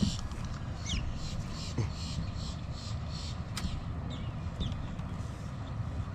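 Outdoor background rumble at the waterside, with a few short high chirps from birds about a second in and again around four seconds in.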